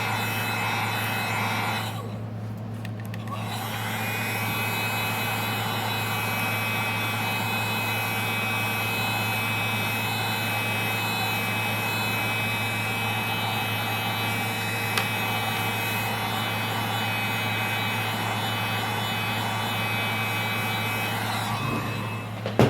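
Wagner heat gun running steadily, its fan blowing with a constant whine and a low hum, warming the phone's screen to soften the adhesive. It cuts out briefly about two seconds in and comes back about two seconds later.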